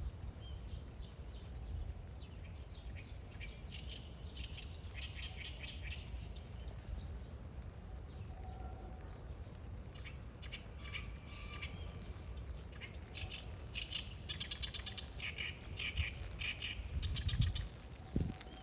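Small birds chirping in quick clusters of short, high notes, with a flurry of dove wingbeats near the end.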